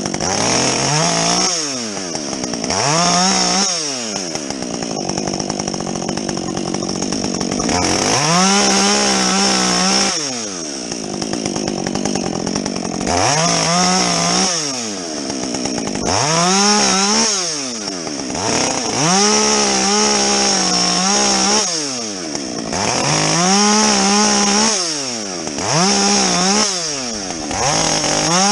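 Muffler-modified Husqvarna 562XP two-stroke chainsaw bucking wood. It is opened up to full throttle again and again, each time holding high revs for two or three seconds, then dropping back between cuts.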